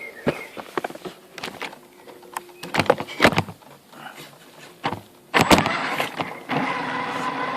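Radio-controlled Tamiya CC01 truck clambering over obstacles: irregular plastic knocks and clatters as the chassis and wheels bump and scrabble, over a faint motor whine. About six and a half seconds in, its electric motor and gearbox start whining steadily as it drives on.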